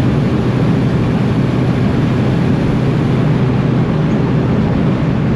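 Cabin noise of a VW Golf Mk1 with a swapped-in 1.9 TDI diesel at a steady speed: an even engine drone under heavy road and wind noise.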